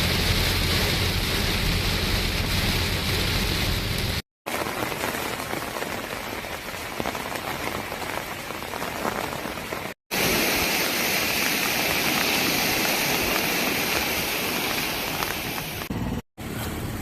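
Steady rain falling, a continuous hiss, broken three times by abrupt cuts to silence.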